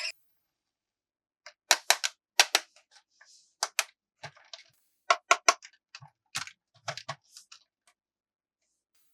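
Sharp clicks and taps of hard plastic toy parts being handled, in irregular clusters, some with a dull knock. They start about one and a half seconds in and stop a little before the end.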